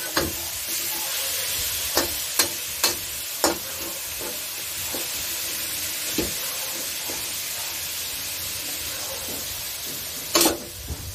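Pork pieces with onion sizzling in hot oil in a wok, stirred with a metal spatula. The spatula clacks and scrapes against the wok several times in the first few seconds, with a longer, louder scrape near the end.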